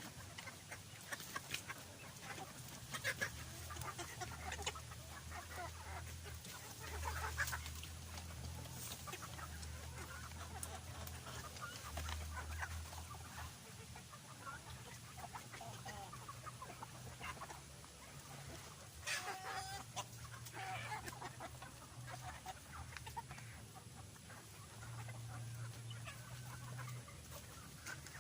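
Free-range chickens clucking, with short scattered calls throughout and one louder call a little past the middle, over a low steady rumble.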